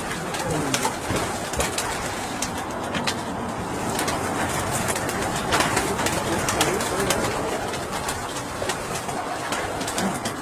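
Tippler pigeons cooing and stirring in a loft, with many short clicks and taps scattered throughout.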